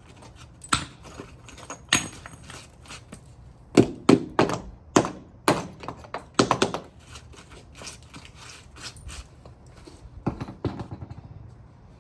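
Irregular knocks and cracks of brick being broken and knocked out of a freshly cored 6-inch vent hole, loudest in a cluster of strikes in the middle.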